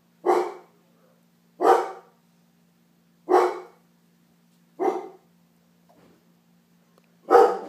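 A dog barking, single barks about every second and a half, five in all, over a faint steady electrical hum.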